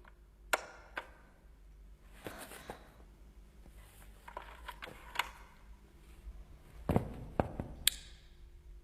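A few scattered light knocks and taps, with faint handling noise between them.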